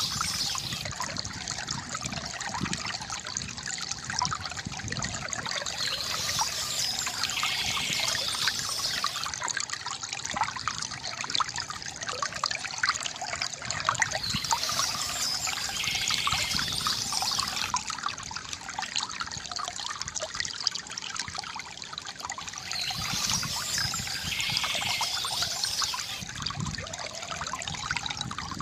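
A small stream trickling and babbling over stones, steady and full of fine splashes. A short bird call recurs about every eight seconds, near the start and again three times later.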